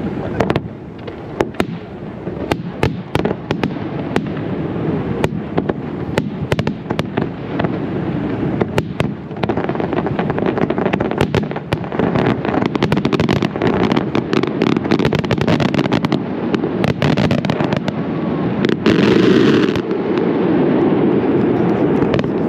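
Fireworks display: many sharp shell bursts in quick succession over a continuous rumble, growing denser and louder, with a brief hissing burst about nineteen seconds in.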